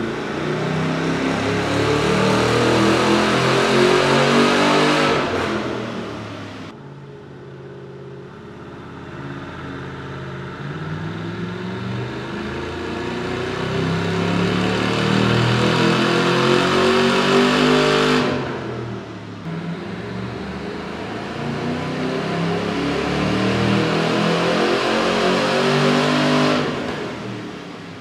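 Stock Chevy SS's 6.2-litre LS3 V8 making full-throttle pulls on a hub dyno. Three times, the engine note climbs steadily in pitch through the revs and then cuts off sharply as the throttle closes, dropping back to lower running. The first pull is already under way at the start, and the last ends just before the end.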